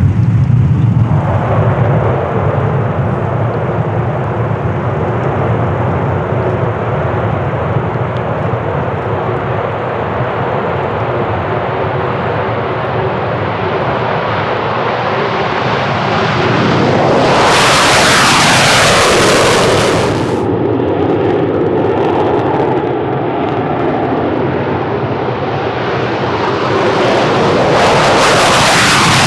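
Eurofighter Typhoon fighter jets taking off, their twin EJ200 turbofans giving continuous loud jet noise. It is loudest as one jet passes about two-thirds of the way in, and swells again near the end as the next one comes by.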